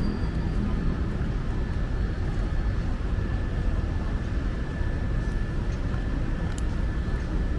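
Steady city street ambience: a continuous low rumble with a faint steady tone through it and a few light clicks.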